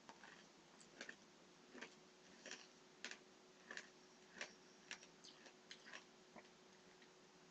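Faint crunching of Nerds candy being chewed, small sharp crunches at a steady pace of about one and a half a second.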